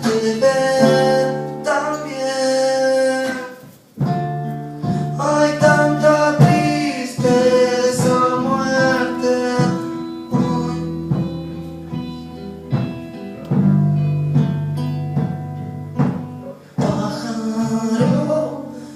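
A song: a voice singing a melody over plucked acoustic guitar.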